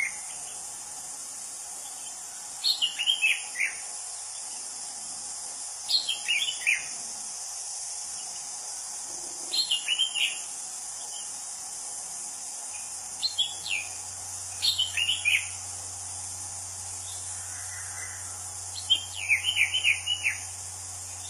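Anis cendana (orange-banded thrush) singing. It gives short phrases of quick, falling whistled notes about every three to four seconds, six phrases in all, the last one longest, over a steady high hiss of insects.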